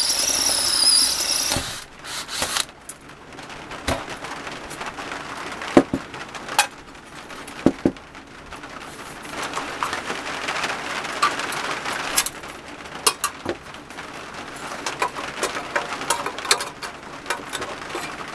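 A high, wavering squeal for about the first second and a half, then scattered clicks, knocks and scraping as the metal parts of a vintage Tonka crane toy are worked on and handled.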